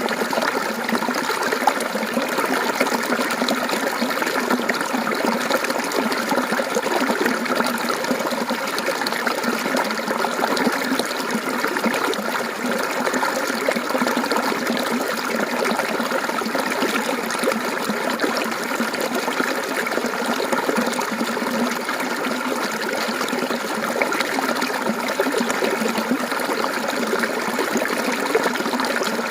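Mountain stream water flowing and trickling steadily, a continuous splashing babble.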